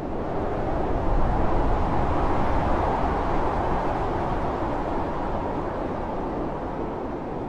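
Blizzard wind blowing hard and steadily. A gust swells about a second in, then slowly eases.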